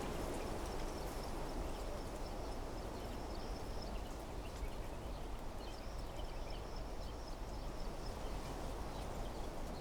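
Wind blowing through trees in a steady rustle, under a thin high insect trill that breaks off about four seconds in and starts again two seconds later. Faint short chirps are scattered through it.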